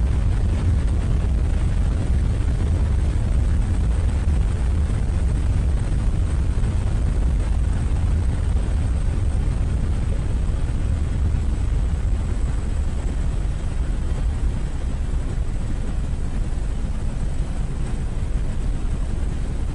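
Steady low rumble of an aircraft in flight, engine and airflow noise, with no breaks or changes.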